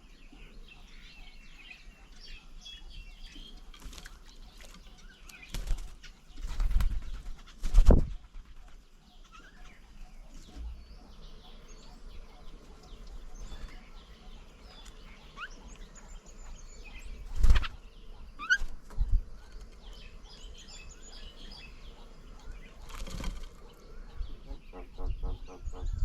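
Wild birds chirping and calling at a bird table, broken by several loud, brief whooshes of wing flaps: a cluster about six to eight seconds in, another around seventeen seconds, and one more near the end.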